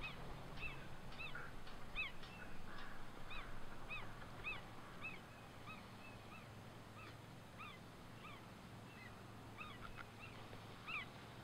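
Birds calling: many short, arched call notes overlapping, about two a second, thinning out after about five seconds.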